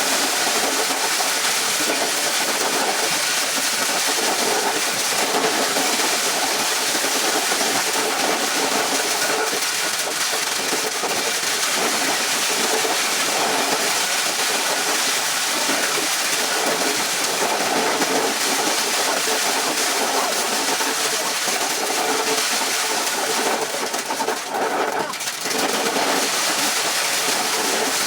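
A farm machine running steadily with a dense, even mechanical noise, briefly dipping about three-quarters of the way through.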